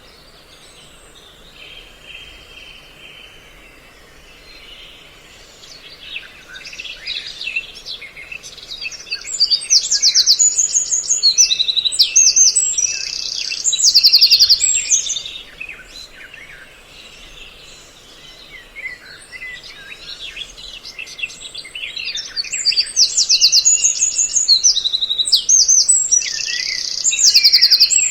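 Bird-call lure recording: a mix of several songbird species calling, with short chirps and rapid high trills. The calls are sparse and faint at first and become dense and loud from about a third of the way in, easing off briefly in the middle before building up again.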